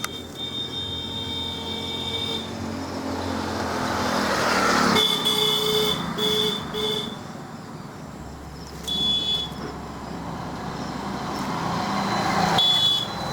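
Road traffic going by, with vehicles swelling past and several short horn honks.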